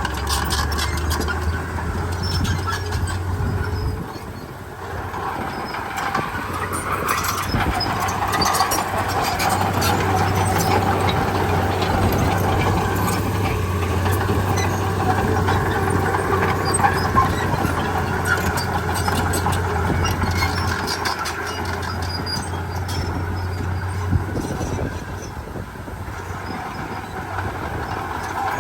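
Heavy diesel machinery working: a crawler bulldozer and dump trucks running steadily, with scattered metallic clanks. The engine noise dips briefly twice, about four seconds in and near the end.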